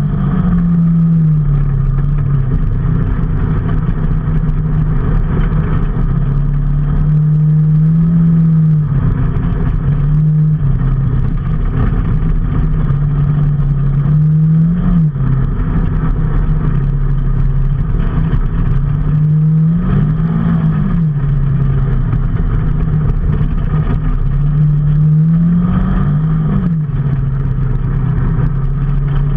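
Vehicle engine running under way, its pitch holding steady, then climbing and dropping back several times as it speeds up and changes gear.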